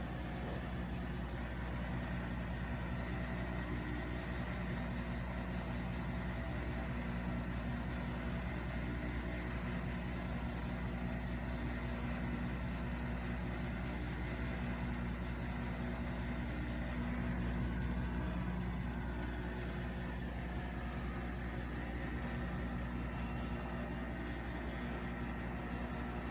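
Bosch washing machine running, a steady motor hum with several low tones under it as the drum turns. The hum is even, with no grinding, and the repairman judges the drum bearing really good.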